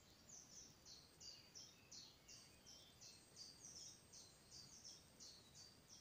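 A songbird singing faintly in woodland: a long, even series of short high notes, about three a second.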